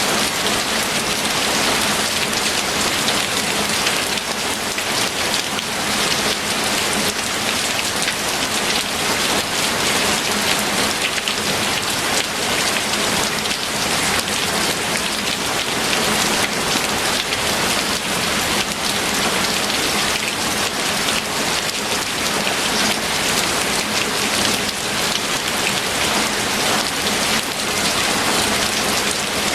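Steady, heavy rain falling, a dense even hiss of many drops striking a surface.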